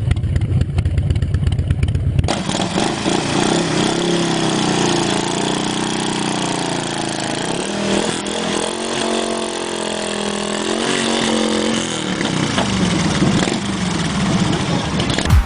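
Motorcycle engines running. A deep, pulsing low rumble cuts off abruptly about two seconds in and gives way to a higher engine note that rises and falls in pitch over a steady hiss.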